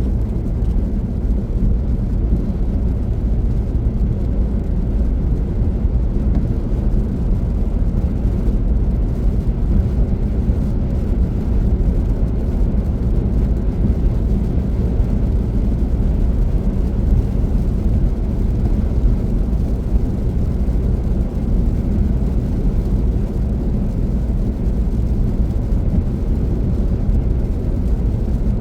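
Steady low rumble of a car being driven: road and engine noise, even and unchanging.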